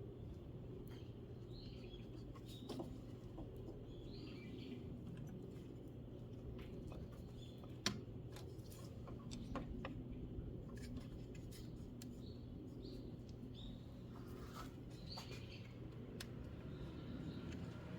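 Faint bird chirps recurring over a steady low hum, with scattered small clicks and taps, a sharper click about eight seconds in.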